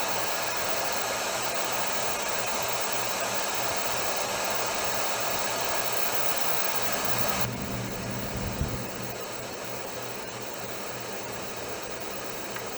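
Amplified noise floor of a microphone recording: a steady hiss with a low electrical hum under it. The hiss drops abruptly about two-thirds of the way through, and a faint low thump follows a second later.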